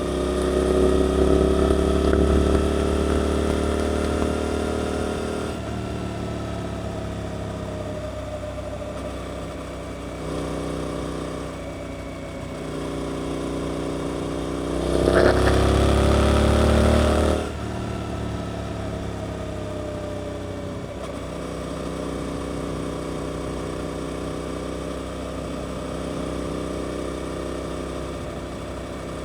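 Suzuki GSX-8S parallel-twin engine through an Arrows aftermarket exhaust, pulling hard with rising revs at first, then backing off to a steadier, lower run. About fifteen seconds in, a short loud burst of throttle cuts off sharply some two seconds later, and the revs then fall away under engine braking.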